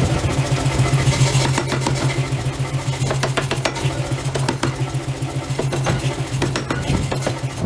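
Heavy forging machinery running: a steady low hum that pulses rapidly, with scattered short metallic knocks and clicks.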